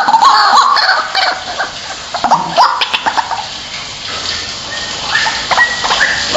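White-breasted waterhen calling loudly, a string of repeated harsh sweeping notes like a lure recording of its 'ruak-ruak' call. The notes come thickest in the first second or so, ease off midway, and pick up again with short flat notes near the end.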